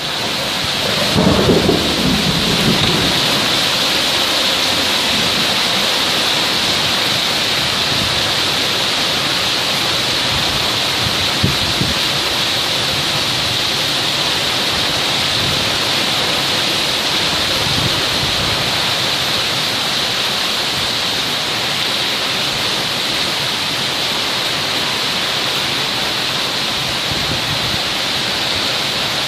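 Thunderstorm: heavy rain falling steadily with an even hiss, a roll of thunder rumbling about a second in, and fainter rumbles of thunder later on.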